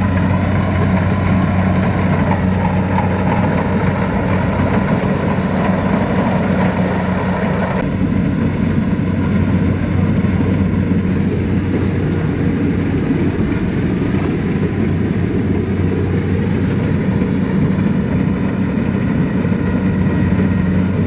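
Tractor diesel engine running at a steady speed. About eight seconds in, the higher part of the sound drops away and the low steady engine note carries on.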